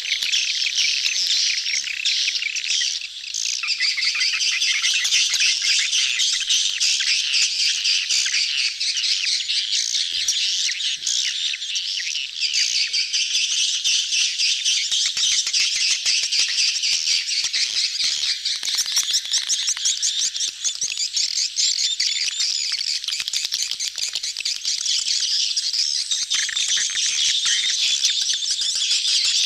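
A crowd of swiftlets chattering and twittering densely and without a break, the many rapid high calls overlapping: a colony's mating-time chatter, the kind played as a lure call to draw swiftlets into a nesting house.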